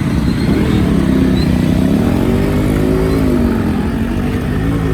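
Yamaha RX-series two-stroke motorcycle engine running, its revs rising and falling slowly a few times.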